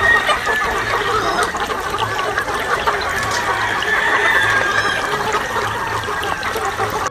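Many chickens clucking and calling at once, a dense overlapping flock chorus, with faint background music underneath; it cuts off sharply at the end.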